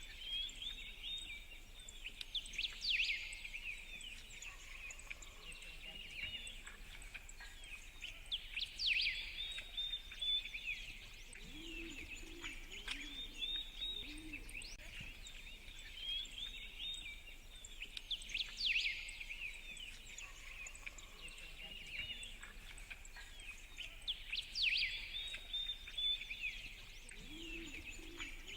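Several birds chirping over a steady outdoor background. The same stretch of birdsong repeats about every 16 seconds, like a looped nature soundtrack.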